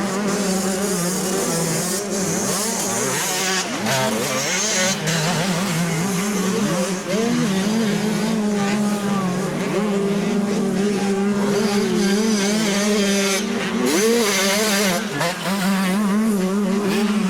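Several 80cc two-stroke motocross engines racing at once, their pitches rising and falling over one another as the riders open and close the throttle, over a steady engine drone.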